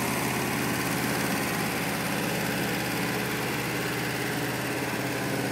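1980 Volkswagen Transporter ambulance's engine idling steadily.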